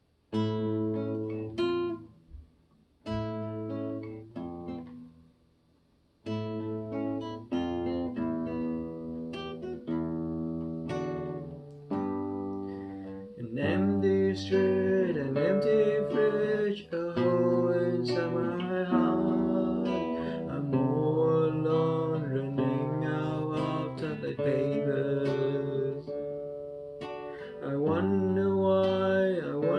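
Acoustic guitar strumming chords, stopping briefly a few times early on. From about 13 seconds in, a man's voice sings over it.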